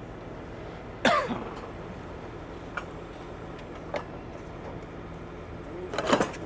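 Steady hum of an idling truck engine, broken about a second in by a short loud sound that falls in pitch, and near the end by another loud burst, with a few faint knocks between.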